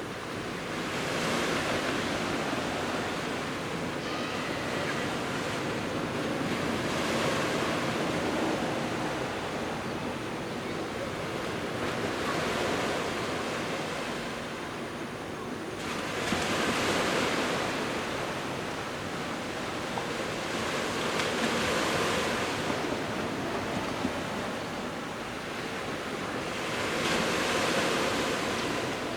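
Sea waves of about a metre breaking on a beach, the surf swelling and fading roughly every five seconds.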